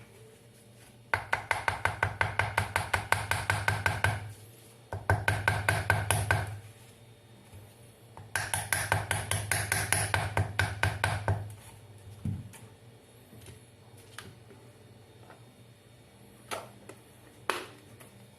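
Hair dryer switched on three times for a few seconds each, its motor humming with a rapid, regular clicking while it runs. A few single knocks follow near the end.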